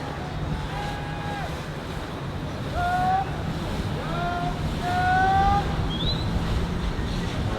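Steady low rumble of a boat motor and water, with wind on the microphone, over which come several short high-pitched calls that rise slightly in pitch, the loudest and longest about five seconds in.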